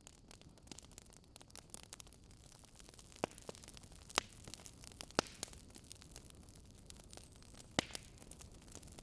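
Wood fire crackling: a steady soft hiss with a few sharp, scattered pops.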